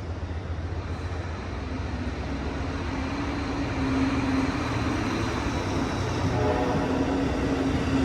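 Amtrak Coast Starlight passenger train under diesel power moving out of the station: a steady low engine rumble with a steady hum, slowly growing louder.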